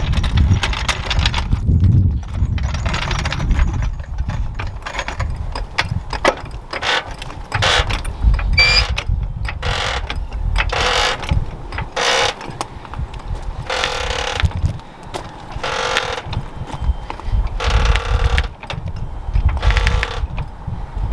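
Floor jack being handled and then pumped to lift the truck: a series of mechanical strokes, one every second or two, from about a third of the way in.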